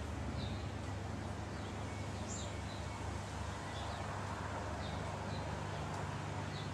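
Birds chirping, short high notes every second or so, over a steady low hum.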